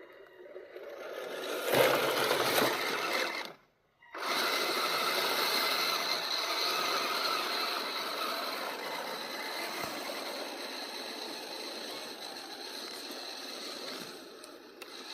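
Small electric RC vehicle drivetrain running: gears and motor clattering with a steady high whine. It cuts off abruptly just before four seconds in, then starts again and runs steadily, easing off slightly near the end.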